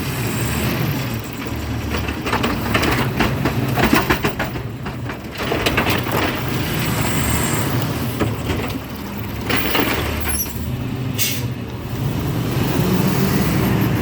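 Garbage truck's diesel engine running steadily, with scattered clanks and knocks, and a short burst of air hiss about eleven seconds in.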